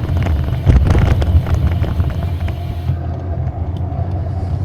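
Vehicle riding over a rough road, with a steady low rumble and a clatter of rattles that is densest about a second in, which the rider puts down to the armrests or the DJI camera mount vibrating. Wind hiss on the microphone fades out about three seconds in.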